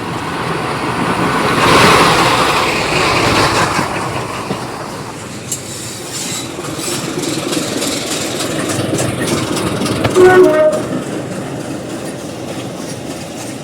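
Heritage diesel train moving off: a steady rumble with the clickety-clack of wheels over rail joints, which swells loudest about two seconds in. About ten seconds in there is a brief, pitched, horn-like tone.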